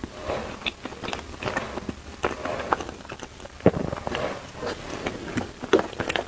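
Close-miked eating sounds: biting and chewing with many short, wet mouth clicks and crunches throughout.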